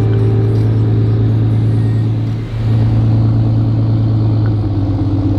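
Truck engine running with a steady low drone that dips briefly about two and a half seconds in.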